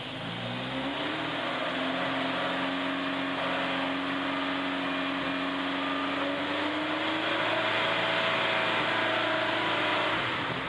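1976 Alfa Romeo Spider's twin-cam four-cylinder engine on twin Weber carburettors, freshly cold-started, revved up from idle and held at a steady raised speed, climbing a little higher later on, then let back down to idle about ten seconds in.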